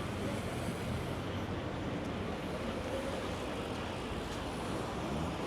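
Steady outdoor street ambience: a breeze on the microphone and a low hum of distant traffic.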